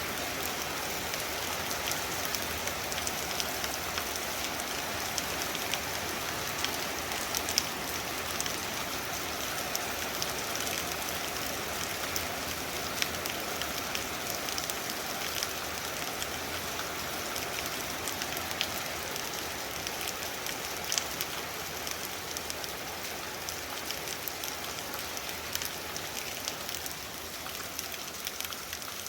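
Very heavy rain falling steadily, with many separate drops ticking and splashing on hard surfaces; it eases slightly near the end.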